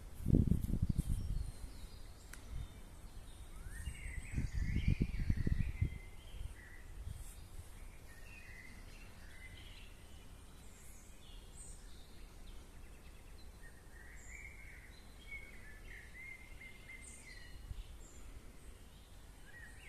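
Small birds chirping and singing on and off throughout. Two spells of low rumbling, the loudest sound, come in the first second or so and again around four to six seconds in.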